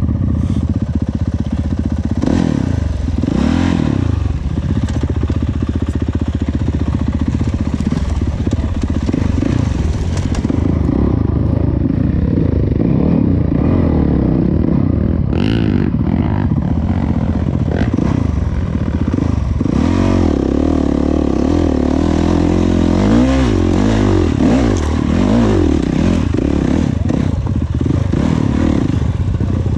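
Dirt bike engine running under riding load, its revs rising and falling again and again with the throttle.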